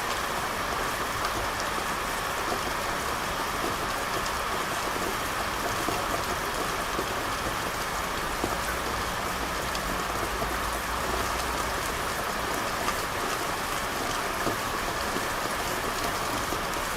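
Steady rain falling on hard street surfaces, with many small drops ticking through it; a low rumble sits under the rain in the middle.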